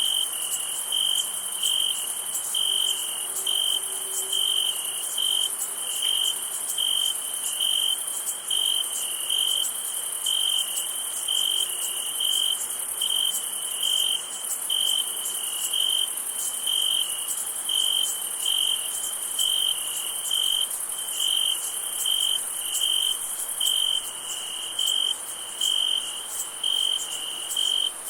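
Night insect chorus: a cricket chirping in even pulses a little over once a second, over a continuous high-pitched trill of many insects.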